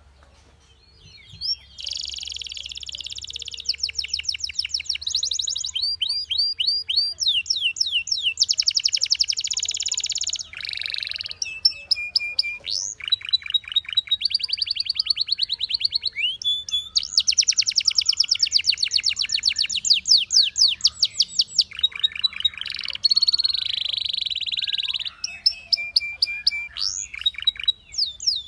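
A canary singing a long song of rapid trills and rolls. It starts after a brief pause, then runs phrase after phrase of fast-repeated high notes. Some phrases are dense rolls and others slower chirps, with short gaps between them.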